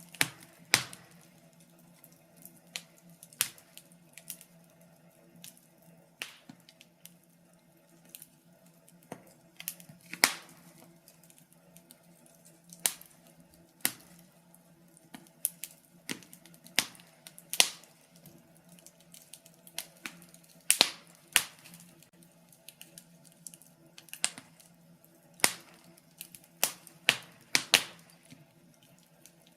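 Wood fire in a fireplace crackling: irregular sharp pops and snaps from the burning logs, a few much louder than the rest, over a faint steady hum.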